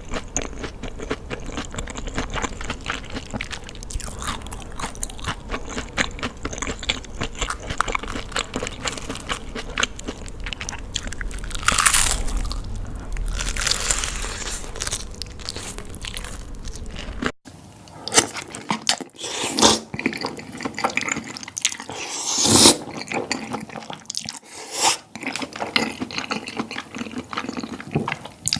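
Close-miked crunchy chewing and biting of food: steady crackly crunching for the first two thirds, then, after an abrupt cut, fewer and louder separate crunches.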